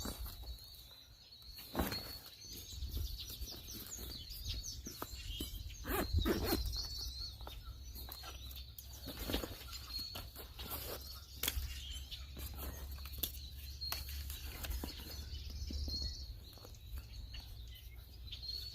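Small birds chirping and twittering repeatedly, with scattered rustles and knocks close by.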